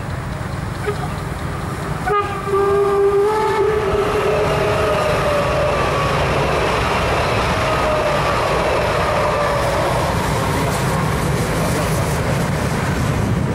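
Two trains passing close by: a steam locomotive with its coaches and an SBB ICN tilting electric train. A horn blows about two seconds in, then tones slowly fall in pitch as the trains go by, over a steady rumble of wheels on track.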